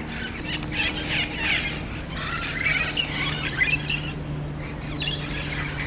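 A flock of green parrots squawking, many harsh calls overlapping without pause, over a steady low hum.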